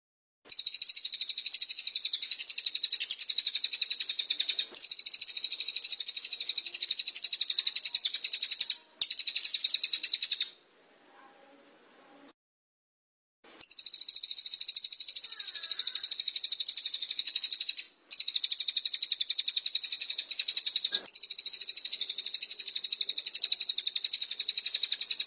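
Recorded songbird song played as a training track: a fast, unbroken, high-pitched trill repeated in long stretches, with short breaks between takes.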